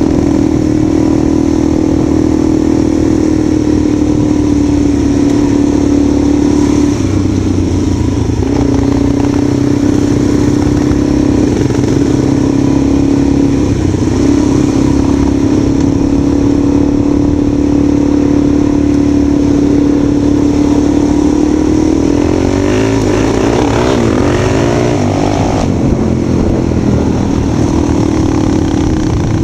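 Motorcycle engine running at a steady speed under way, its pitch wavering up and down for a few seconds around the twenty-two to twenty-six second mark as speed changes, then settling again.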